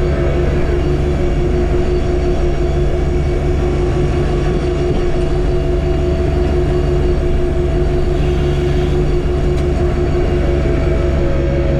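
John Deere 1025R compact tractor's three-cylinder diesel engine running steadily under work, with a steady whine over the rumble.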